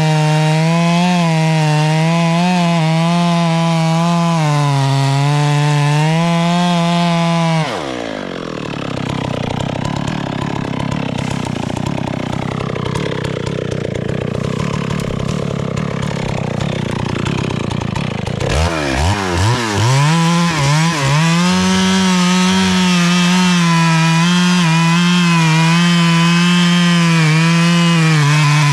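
Two-stroke chainsaw running flat out while cutting a tree. About eight seconds in the engine note drops sharply and gives way to a rougher noise for about ten seconds; then the saw revs back up in a few quick throttle blips and runs at full throttle again.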